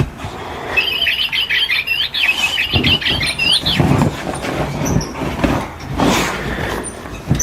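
A quick run of high-pitched chirping squeaks from a small animal, lasting about three seconds from a second in, over rustling and light knocks.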